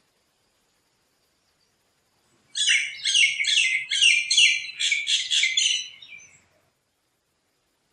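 A bird calling close by: a quick run of chirps, several a second, starting about two and a half seconds in and stopping about four seconds later.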